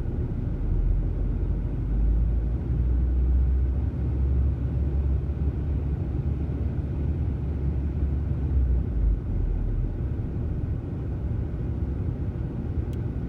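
2003 VW Passat 1.8T turbocharged four-cylinder engine idling roughly, with no throttle applied, its idle speed rising and falling. This is a hunting idle that the owner suspects comes from a vacuum leak.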